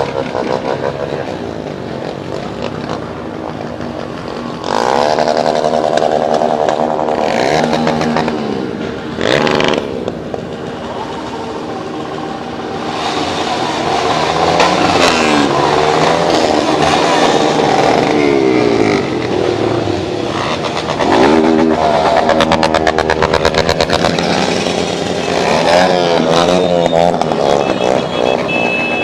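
Motorcycle engines running and revving, more than one bike, the engine pitch repeatedly rising and falling.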